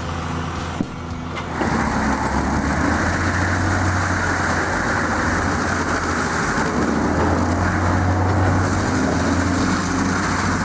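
Heavy machine's diesel engine running steadily under load, with a deep drone and a broad mechanical rush that grows louder about one and a half seconds in.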